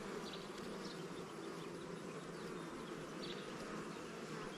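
Steady buzzing of a swarm of honey bees around an open hive, with drones among them; the colony is agitated and unusually active.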